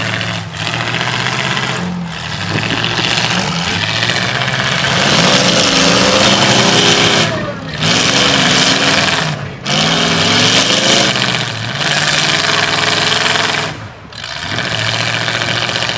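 Demolition derby cars' engines running and revving up and down several times, over a steady wash of noise.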